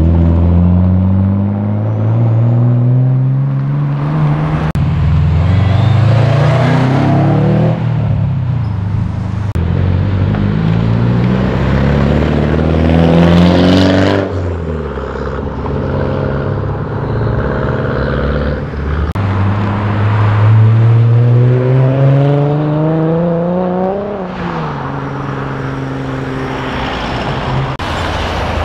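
Modified Japanese performance cars, a Nissan Skyline R33 and a Nissan Silvia S15 among them, accelerating hard away one after another. Each engine revs up with a rising pitch and drops sharply at each gear change, over and over.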